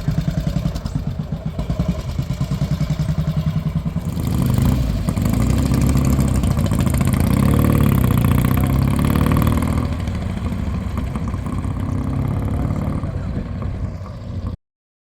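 BMW R1200GS boxer-twin motorcycle engine running with an even pulsing beat. It gets louder from about four and a half seconds in, eases off again a few seconds later, then cuts off abruptly near the end.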